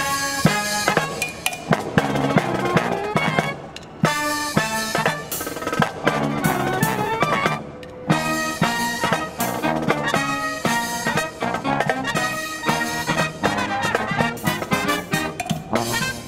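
Brass marching band playing live, with brass chords over drums. The phrases break off briefly about four and eight seconds in.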